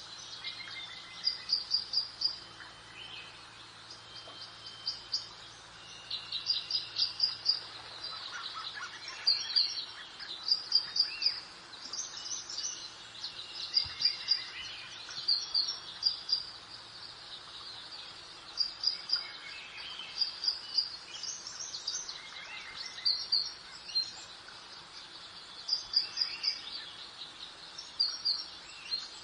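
Small songbirds singing: quick runs of short, high chirps repeating every second or two, over a soft, steady background hiss.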